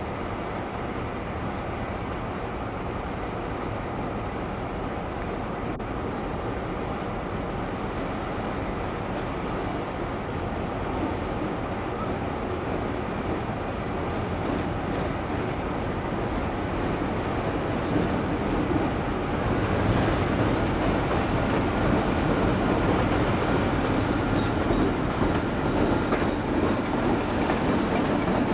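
Train running on the rails, growing steadily louder through the second half as it draws nearer.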